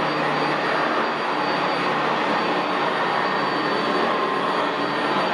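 Sanitaire SC679J commercial upright vacuum running steadily on carpet, with a thin high tone over the motor and airflow noise.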